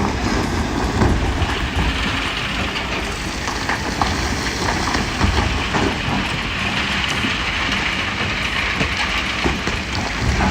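Heavy machinery working: a steady engine rumble with irregular clanks and clatter throughout.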